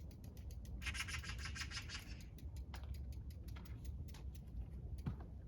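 Bicycle rear hub freewheel ticking in rapid, even clicks as the loaded touring bike rolls along without pedalling, with a denser run of clicks about a second in. A steady low wind rumble sits on the microphone underneath.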